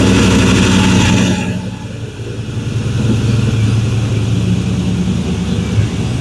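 Chevrolet Silverado pickup engine just started cold, running fast at first, then dropping back about two seconds in and settling into a steady idle.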